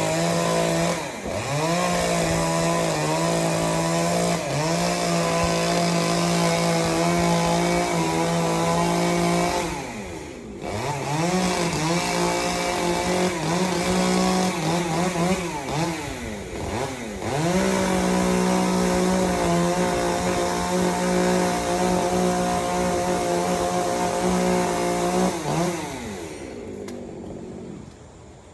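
Chainsaw running at high revs, its pitch dropping and climbing back several times, then winding down near the end.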